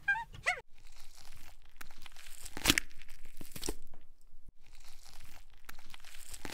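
Deer grazing close up: grass tearing and crunching as it crops and chews, with scattered sharp clicks and a short pause a little past the middle. In the first half second a few short falling squeaky calls from monkeys are heard.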